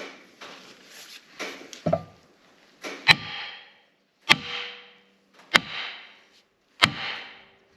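Hammer blows on metal, driving a part onto the mower's shaft: a few light knocks, then four hard strikes evenly spaced a little over a second apart, each with a short metallic ring.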